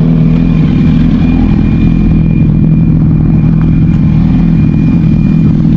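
Suzuki GSX-R sportbike engine running at a steady, unchanging pitch while riding slowly, with no revving.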